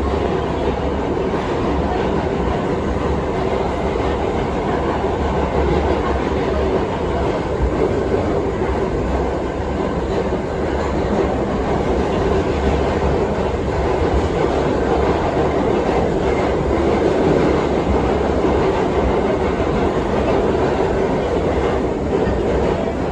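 R68 subway car running steadily along the track: a continuous rumble of wheels on rail with some clickety-clack from the rail joints.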